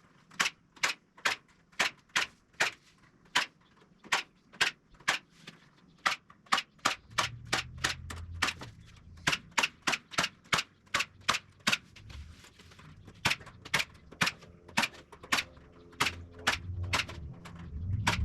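A steady run of sharp tool strikes on the wooden frame, about two or three a second, with a low hum joining in about seven seconds in.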